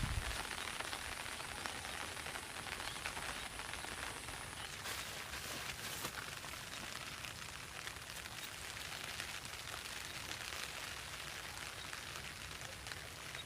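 Steady rain falling, an even patter of drops with faint scattered ticks.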